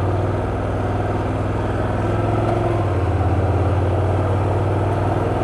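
Motorcycle engine running steadily while riding, with a slight change in engine note about three seconds in, under a steady rush of wind or road noise.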